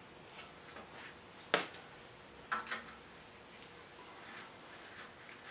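Scattered clicks and clinks of hand tools and metal parts during an engine teardown. One sharp clink about a second and a half in is the loudest, with two smaller clicks a second later.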